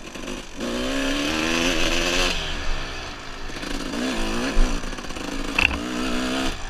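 Dirt bike engine revving under throttle, its pitch climbing and wavering. It pulls twice: once from about half a second in until just past two seconds, and again through most of the second half.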